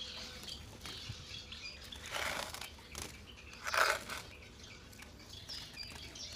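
A small caged bird flutters its wings in two short bursts, about two seconds in and about four seconds in, with a few faint chirps.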